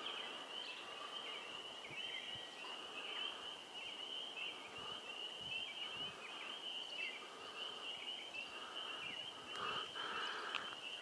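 Early-spring chorus of frogs in a swamp: a steady, high-pitched mass of rapid repeated calls, with lower clucking calls coming and going and growing stronger near the end. It is the first, still sparse chorus of the season, starting up as nights climb just above freezing.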